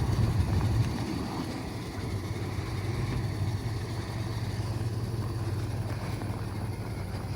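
Ford F350 pickup truck engine idling steadily, a low even note, slightly louder in the first second.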